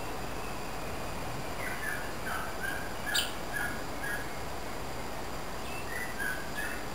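A bird calling in a run of short notes, a few a second, then again near the end, over a steady background hiss. A single sharp click comes about three seconds in.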